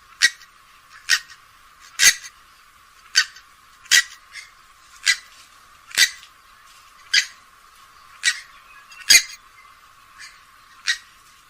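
Grey-headed swamphen calling: a series of short, sharp call notes, about one a second, a few fainter than the rest.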